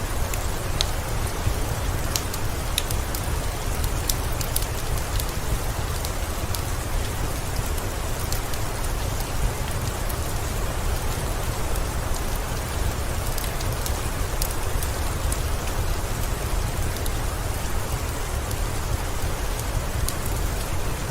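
Steady rain with a low rumble underneath, mixed with the scattered sharp crackles of a wood fire in a fireplace.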